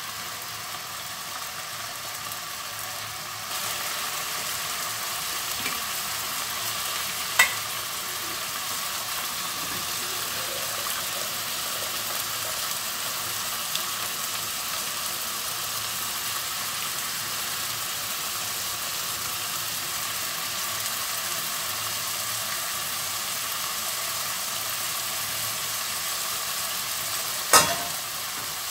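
Diced chicken sizzling steadily in butter and its juices in a nonstick wok as the liquid reduces. One short click about a quarter of the way in, and near the end a sharp metal clank as the steel steamer insert is set back onto the pasta pot.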